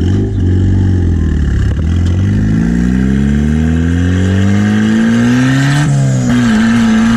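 Turbocharged Mazda Miata four-cylinder engine under hard acceleration, its pitch rising steadily as the revs climb, then dropping suddenly at a gear shift about six seconds in before pulling again.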